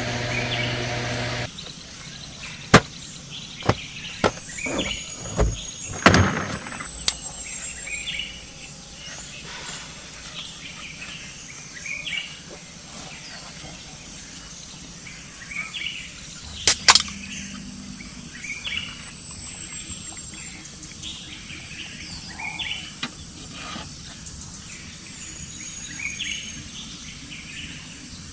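Forest birds singing: repeated short chirps and, every few seconds, a thin high whistle sliding down in pitch. A steady low mechanical hum, like an engine running, cuts off about a second and a half in, and several sharp knocks sound, the loudest around six seconds in and again around seventeen seconds in.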